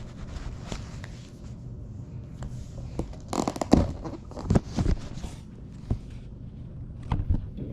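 Handling noises: rustling and scraping with several sharp clicks and knocks, thickest around the middle, over a low steady hum.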